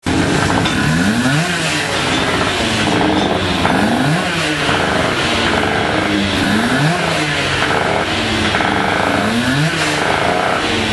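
Racing motorcycle engine being warmed up on its stand, running at a fast idle and blipped four times, each blip a quick rise and fall in pitch.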